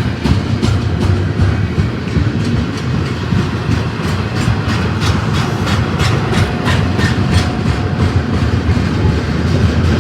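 Freight train rolling past, with a steady low rumble and a quick run of wheel clicks as the cars cross rail joints.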